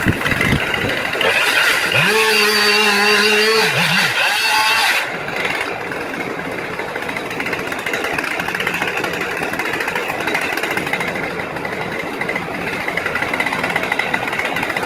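Tractor engine running, revved up for about two seconds shortly after the start and then dropping back to a steady drone.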